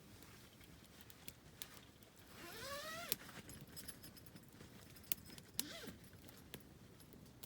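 Campfire wood crackling with scattered sharp pops. A short rising whine runs about two to three seconds in, ending on a pop, and a brief pitched sound comes near six seconds.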